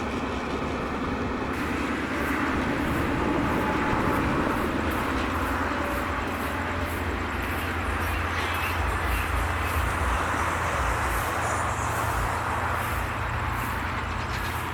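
Diesel-hauled passenger train rolling past through a station, its wheels clicking evenly over the rail joints above a steady low hum.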